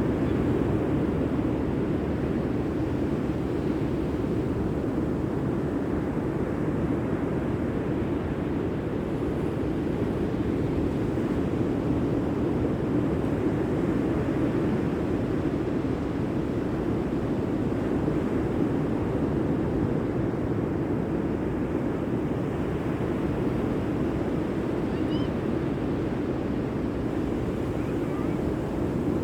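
Steady rushing of sea surf, an even wash of noise without pauses.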